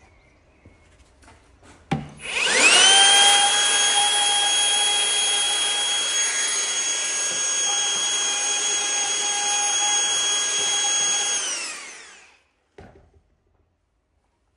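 Electric router with a chamfer bit, switched on with a click about two seconds in, spinning up to a steady high whine and running for about nine seconds as it chamfers the edge of a mortise in green oak, then winding down with a falling whine. A couple of small knocks follow near the end.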